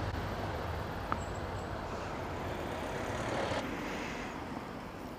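A road vehicle's engine running and fading away, over steady traffic noise, with a single short click about a second in.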